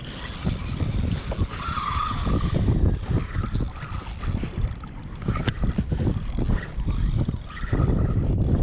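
Wind buffeting the microphone with water sloshing and slapping against the kayak in rough seas: a loud, rough rumble broken by many short knocks.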